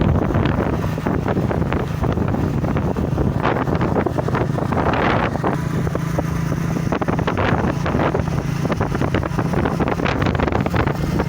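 Wind buffeting the microphone on a moving motorbike, over a steady low engine drone.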